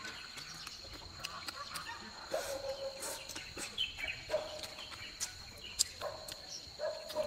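Close-up eating sounds: chewing and small wet mouth clicks as food is taken from chopsticks. Several short calls from farmyard fowl sound behind them, and a steady high tone runs underneath.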